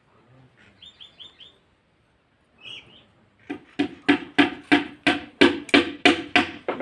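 A few short high chirps, then a steady run of sharp knocks or claps, about three to four a second, that carries on to the end.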